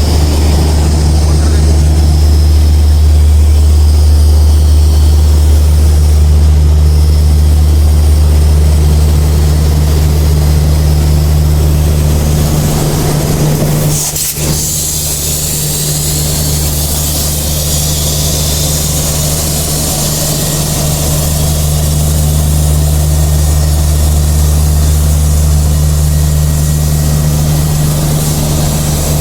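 WDS-6 diesel shunting locomotive engine idling with a loud, steady low drone. There is a brief drop and a click about halfway through.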